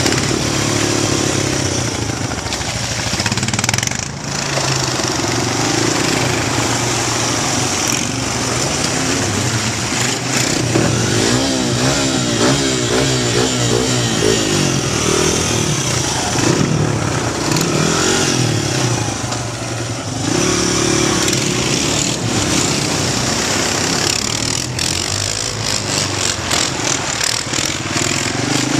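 Honda XR100 dirt bike's single-cylinder four-stroke engine running under a rider, its pitch rising and falling repeatedly as the throttle is opened and closed through the gears, heard from a helmet-mounted camera. Around the middle the revs waver quickly up and down.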